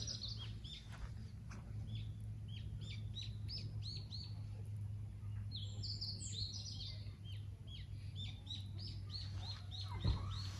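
Wild birds singing in the woods: a rapid series of short high chirps, with two brighter trilled phrases near the start and about halfway through, over a steady low hum. A single knock sounds about ten seconds in.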